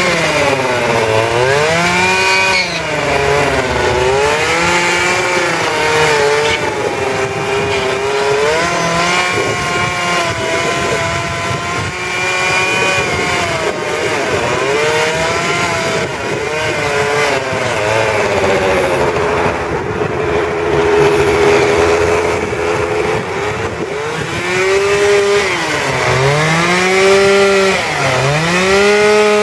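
Two-stroke chainsaw running while carving wood, its engine pitch rising and sagging over and over as the chain loads and frees in the cut. It runs steadily through a stretch in the middle and dips sharply several times near the end.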